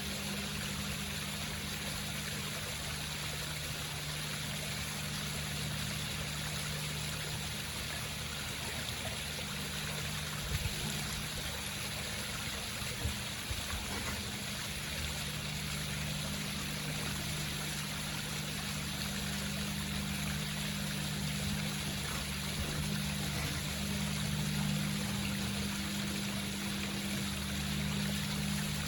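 Home waterfall: water trickling and splashing steadily down rocks, with a steady low hum underneath.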